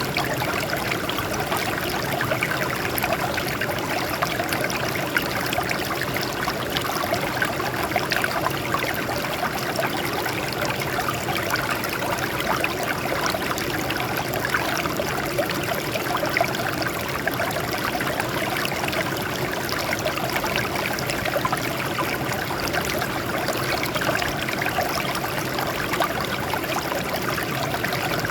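Water flowing and splashing over rocks in a steady small stream, with a continuous babbling trickle.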